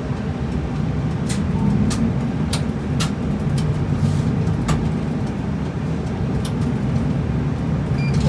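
Route bus engine and road noise heard inside the cabin: a steady low rumble as the bus drives along, with scattered sharp clicks or rattles.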